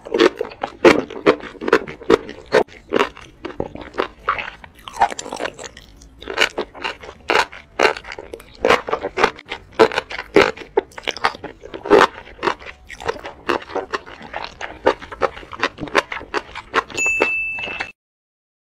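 Close-miked eating of enoki mushrooms in thick sauce: wet chewing, crunching and sharp mouth clicks, over and over. Near the end a short steady high-pitched beep sounds for about a second, then the sound cuts off.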